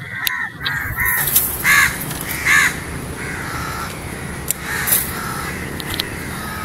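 A bird calling again and again in short calls spaced irregularly, with a few sharp clicks in between.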